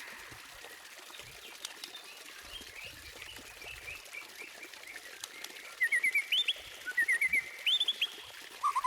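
White-rumped shama (murai batu) singing: soft twittering for the first few seconds, then two loud phrases of quick notes stepping upward in pitch, starting about six seconds in.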